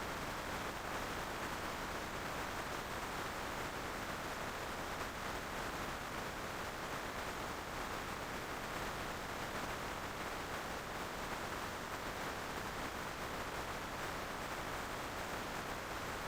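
Steady rushing wind and road noise from a motorcycle ride, even throughout, with no clear engine note.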